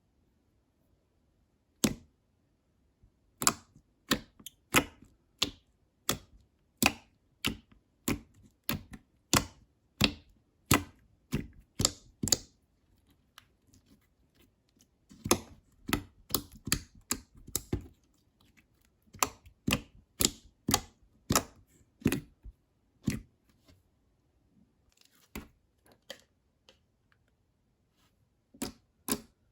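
Slime being pressed and poked by hand, giving a run of sharp sticky clicks and pops about two a second. The clicks pause briefly midway, start again, and thin out to a few faint ones near the end.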